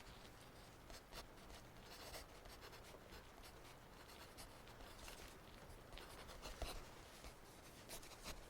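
Faint scratching of writing on paper, in small irregular strokes, as a math problem is worked out by hand.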